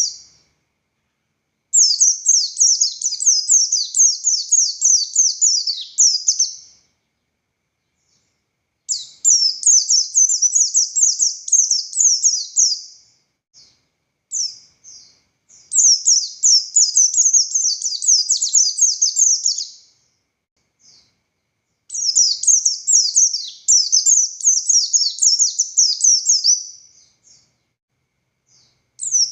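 A white-eye (pleci buxtoni) singing vigorously in a high-pitched, fast chattering style. The song comes in bouts of about four to five seconds of rapid, tumbling notes, with short pauses and a few lone chirps between bouts.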